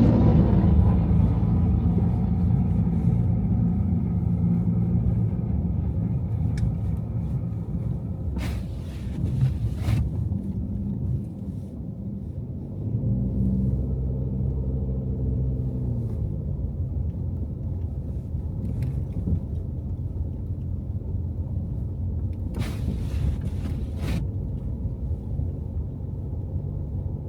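Car driving on city streets in snow: a steady low road and engine rumble, with an engine tone that falls away at the start and comes back for a few seconds about halfway. A few short knocks come through about a third of the way in and again near the end.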